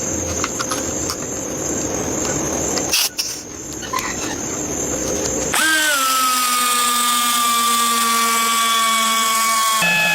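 Electric power tool at work: a rough, noisy rasp with a few clicks for roughly the first half, then after an abrupt change a steady motor whine that sags slightly in pitch and steps up just before the end.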